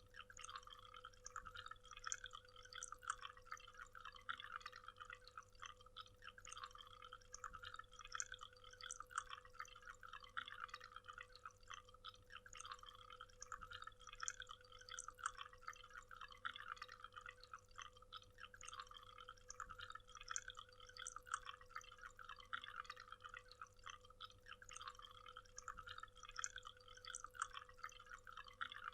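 Faint waterfall: water splashing and spattering steadily in dense, irregular droplets, with a faint steady hum underneath.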